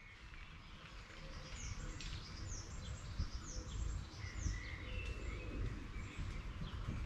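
Songbirds singing: many short, high calls that each sweep down in pitch, repeated every second or so, with some brief warbled notes, over a steady low rumble.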